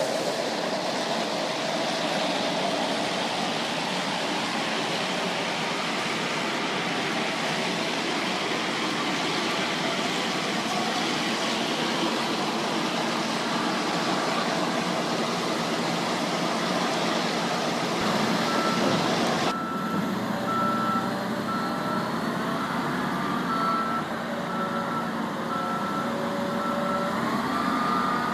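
Steady rumble of vehicle or machinery noise. About two-thirds of the way in the sound changes and a reversing alarm beeps at an even pace, roughly once a second, until the end.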